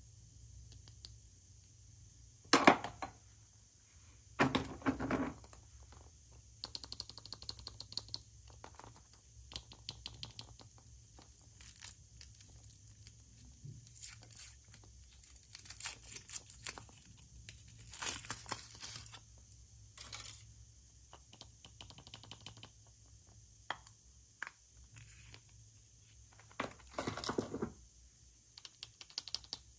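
Packaging being torn open and crinkled by hand, in irregular bursts of ripping and rustling with a few louder tears.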